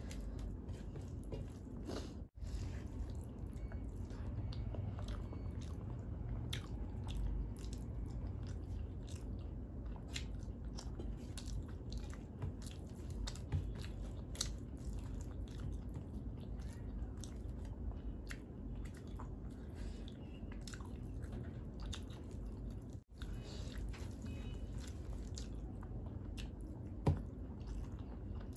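Close-up chewing and mouth sounds of a person eating rice with curry by hand, with many small clicks and squishes of fingers working wet rice on a steel plate. The sound cuts out briefly twice, about two seconds in and again later on.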